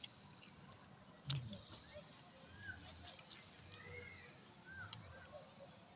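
Faint outdoor ambience with a few short, arching bird chirps and one soft knock about a second in.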